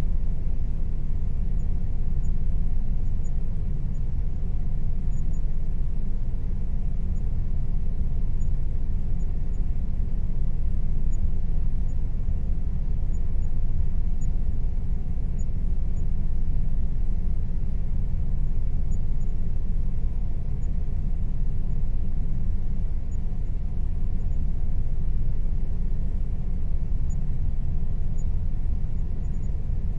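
Air conditioner running with a steady, unchanging low rumbling hum.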